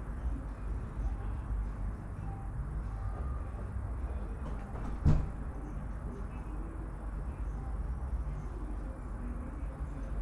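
Steady low rumble of city traffic, with a single sharp knock about halfway through.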